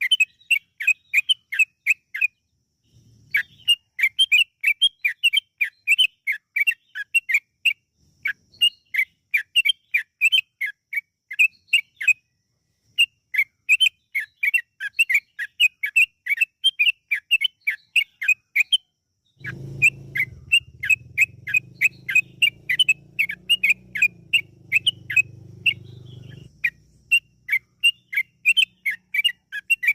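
Yellow-vented bulbul (trucukan) song: a long, fast run of short, repeated chattering notes, about four a second, broken by brief pauses. This is lure song played to draw other bulbuls into calling. A low rumble runs beneath it for several seconds past the middle.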